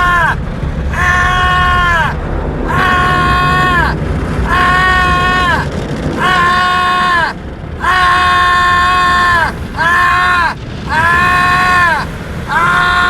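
A man screaming 'aaah' over and over: about ten drawn-out, high-pitched yells, each about a second long, with short breaks between them, over a steady low rumble.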